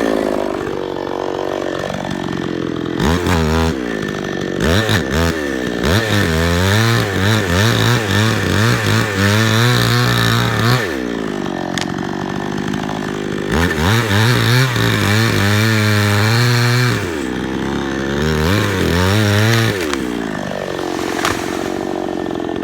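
Gas chainsaw engine revving repeatedly: it runs at high revs for a few seconds at a time, with the pitch wavering, then drops back to idle. It revs about four times.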